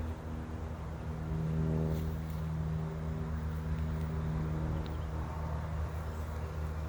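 A steady, low, even-pitched engine hum, a little louder between about one and two seconds in.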